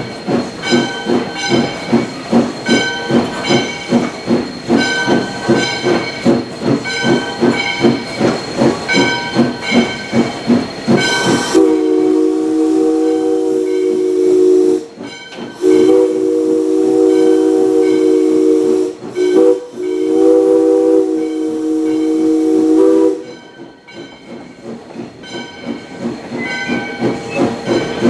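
Valley Railroad Mikado #40 steam locomotive working with a steady rhythm of exhaust chuffs. About twelve seconds in, its chime whistle sounds a chord in the long, long, short, long pattern of a grade-crossing signal. The chuffing comes back quieter after the whistle.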